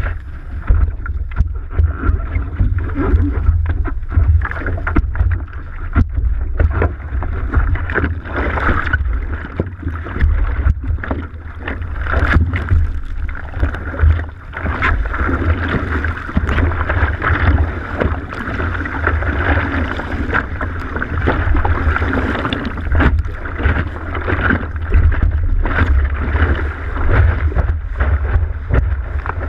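Wind in 15–20 knots buffeting the microphone in a heavy rumble, over the rushing hiss of water past a moving windsurf board, with frequent sharp slaps of chop against the board.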